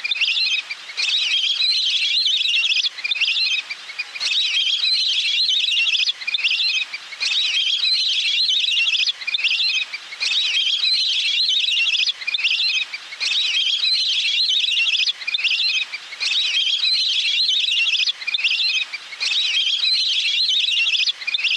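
Recorded call of a water bird, played back on loop as a lure: phrases of rapid, high-pitched trilling repeat about every one and a half seconds with short breaks between them.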